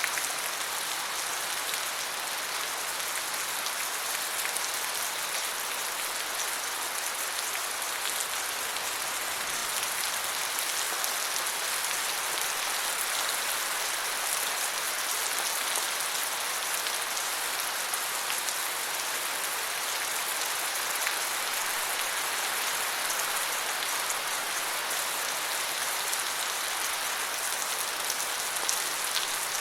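Steady rain falling on forest leaves, a dense even patter of many small drop ticks.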